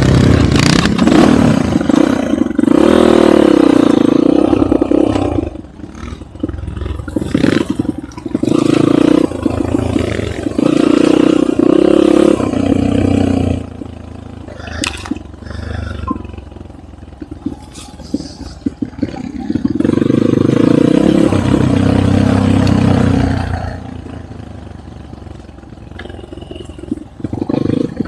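Enduro motorcycle engine riding off-road, revving up hard in three long pulls with the throttle eased off in between, with scattered knocks and rattles over rough ground.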